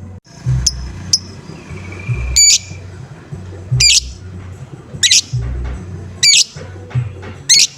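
Lovebird giving short, high, shrill 'ngoek' calls, one about every second and a bit, over a background music beat.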